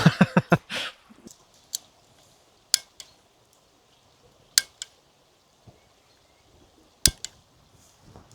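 Sharp clicks and light clinks: a quick run of knocks in the first second, then single clicks every second or two, over a quiet background.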